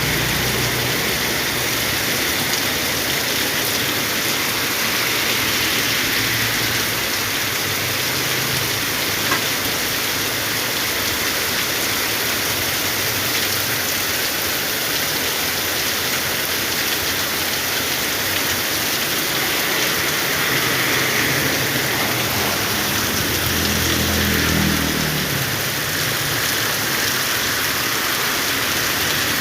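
Heavy rain pouring steadily, a dense even hiss. Near the end a low hum swells and fades beneath it.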